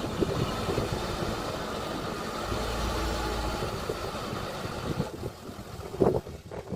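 Engine of a heavy earthmoving machine running steadily, falling off about five seconds in, with a single knock about a second later.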